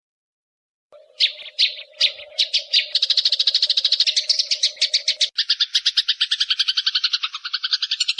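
A songbird recording: after a second of silence, spaced sharp high notes speed up into a fast, even trill, which shifts lower about five seconds in. A steady low hum runs under the first part and stops where the trill changes.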